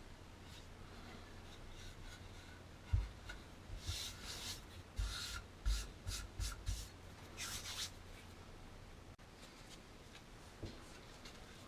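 A run of short rubbing or scraping strokes with several light knocks, bunched from about three to eight seconds in, typical of hands working on small metal parts; a single faint tap comes near the end.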